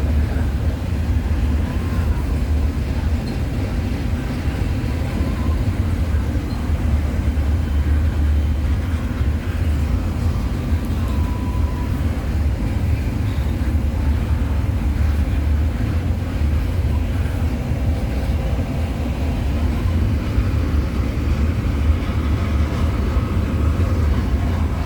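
Cars of a CN intermodal freight train rolling past on the line, a steady, loud low rumble of wheels on rail.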